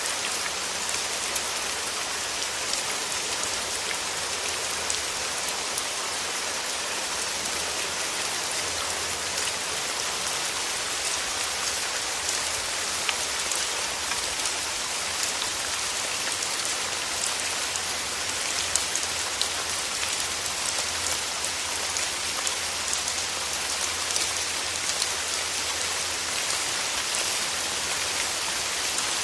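Steady rain falling: an even hiss of many drops, with scattered sharper taps of single drops landing close by.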